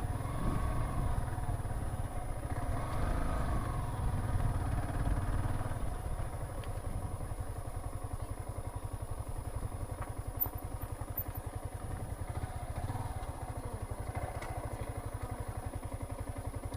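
Motorcycle engine idling steadily at low revs, a little quieter after about six seconds.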